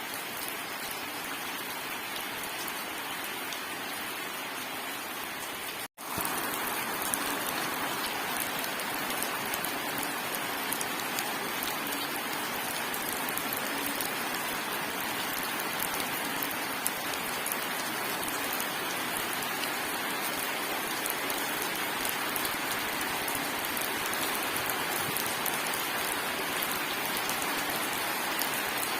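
Steady heavy rain falling on hard surfaces, an even hiss of drops with no thunder. It cuts out for an instant about six seconds in and comes back a little louder.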